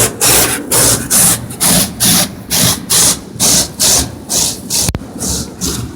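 Automatic car wash machinery working over the car, heard from inside the cabin: an even rhythm of swishing rushes about three a second, with a sharp click about five seconds in, after which the swishing fades to a steadier rush.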